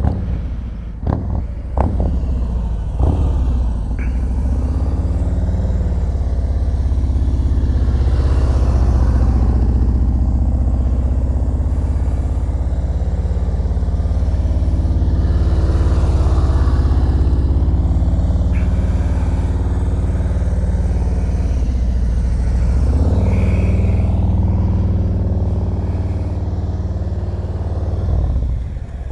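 Motorcycle engine running steadily at low revs with a deep, even note. Its pitch shifts briefly a little past two-thirds of the way through, as the throttle changes during slow-speed manoeuvring.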